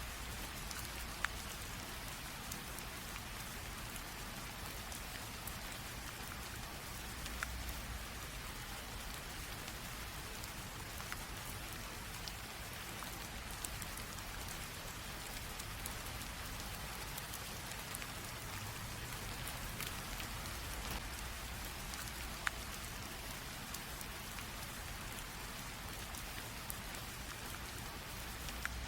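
Light rain drizzling steadily, a soft even hiss with scattered individual drops ticking now and then.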